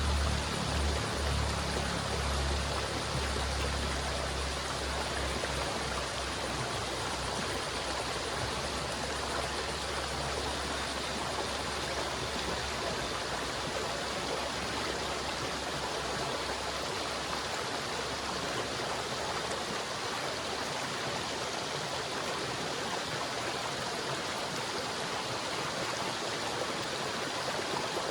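River water flowing steadily, a constant rushing and babbling. A low steady hum underneath fades out over the first several seconds.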